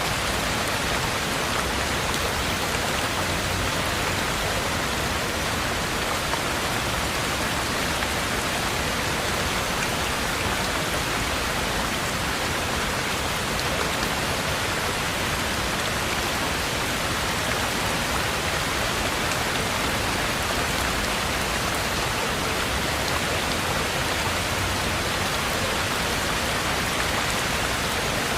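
Heavy rain falling steadily, a constant even hiss with no thunder and no let-up.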